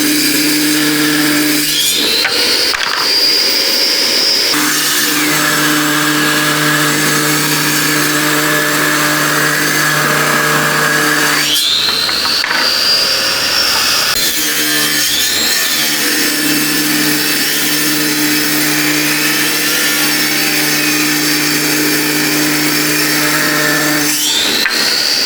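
Electric power tools running with a steady hum. Three times a high whine rises quickly and holds for a couple of seconds: about two seconds in, near the middle, and right at the end.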